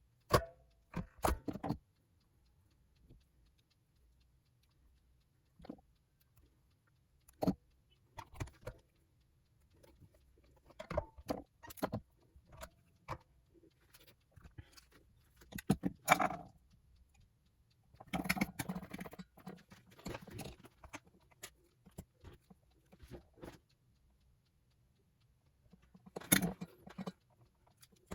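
Small metal hardware and tools clicking and rattling during the hands-on assembly of a 1978 Greco SE600W electric guitar: scattered sharp clicks and short jangles with quiet gaps, a longer rattling spell about two-thirds of the way through.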